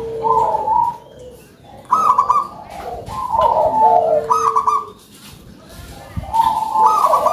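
Zebra dove (perkutut) singing its cooing song: about three loud phrases of quick, rolling coos, each a second or so long with short pauses between.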